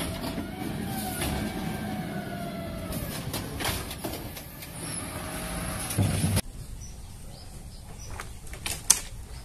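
Vehicle sound with slowly gliding tones that cuts off suddenly about six and a half seconds in, followed by a few sharp clicks near the end.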